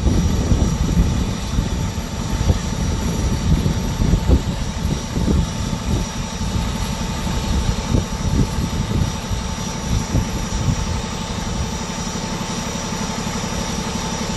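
Engine running steadily at idle: a low rumble that keeps on without a break.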